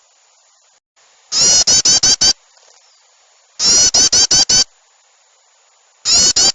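Looped bird-lure recording of an agitated, chattering small-bird call played loud and slightly distorted. It comes in bursts of about six rapid harsh notes, each burst lasting about a second, repeating roughly every two and a half seconds.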